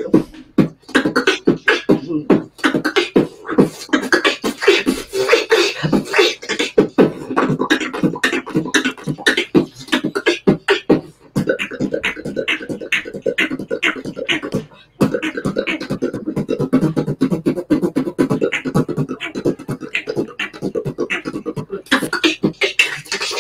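Beatboxing heard over a video chat: a fast run of kick, snare and hi-hat sounds made with the mouth over a continuous hummed bass line, breaking off briefly about fifteen seconds in before carrying on.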